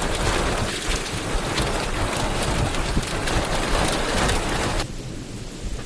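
Heavy rain pouring down in an even hiss. About five seconds in, the level drops suddenly to a quieter rain.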